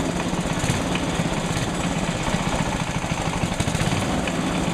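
Rebuilt Tecumseh HH120 single-cylinder engine running steadily on a test bench with a fast, even beat. The builders think they hear a knock in it.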